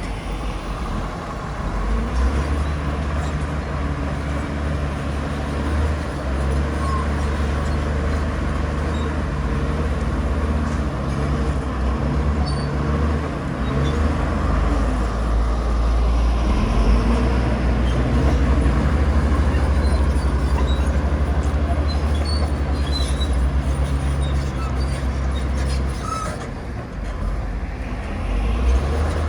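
Heavy diesel engine of earthmoving machinery running steadily with a deep, even drone. It eases off briefly near the end, then picks up again.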